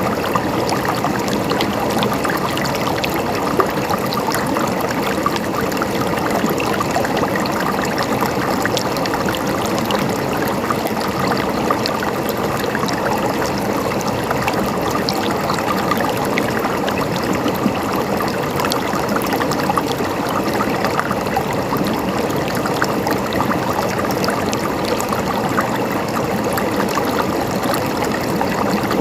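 River water running steadily over rocks: a continuous rushing and splashing with many small bubbling trickles.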